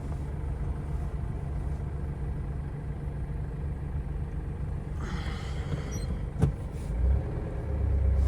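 Steady engine drone and road rumble inside the cab of a moving GAZelle van. There is a short hiss about five seconds in and a single sharp click about a second later.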